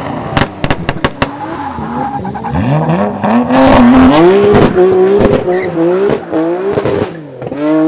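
Modified Nissan Silvia's engine revving hard under acceleration, its pitch climbing in steps through several gearshifts, with sharp cracks and pops throughout.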